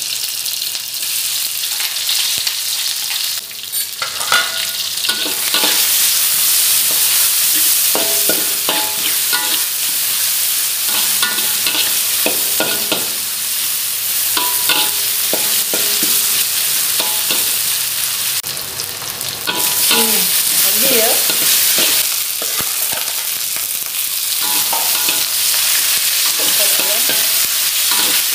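Lemongrass, pounded garlic, shallots and ginger sizzling in hot oil in a wok, with a spatula scraping and knocking against the pan as they are stirred. The sizzle swells twice, about five seconds in and again about twenty seconds in.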